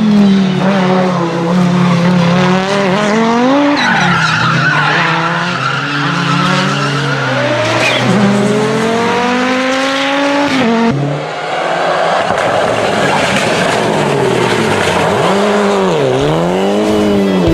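Rally car engine at full throttle, its pitch climbing through the gears and dropping back at each upshift, with a rushing noise underneath. Near the end the revs dip sharply and climb again.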